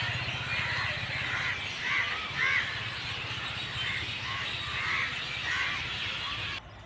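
A flock of birds calling, with many short, overlapping caw-like calls, over a steady low hum. The sound drops away suddenly near the end.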